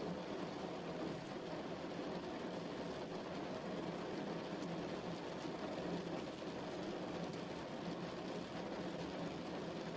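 Steady rain, an even hiss of drops with its weight low in pitch.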